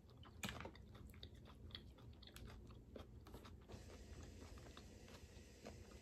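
Faint chewing with scattered small clicks and crunches: a person eating boiled crawfish close to the microphone.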